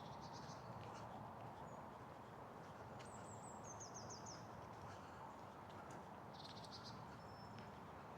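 Small songbirds chirping in short high phrases, with a quick descending run of notes in the middle, over a faint steady outdoor hiss.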